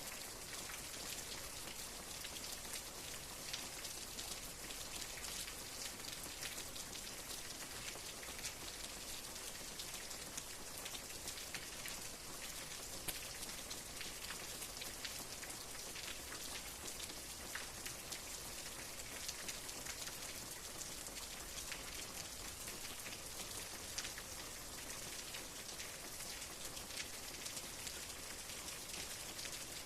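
Steady rain falling, a dense even hiss with many individual drops tapping, a few of them a little louder.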